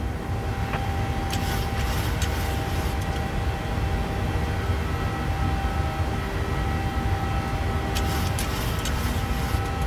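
Steady low drone of a Boeing 737's engines and rushing air inside the cabin during climb-out, with a few faint steady tones over it. Two short spells of crackly hiss come through, one about a second in and one near the end.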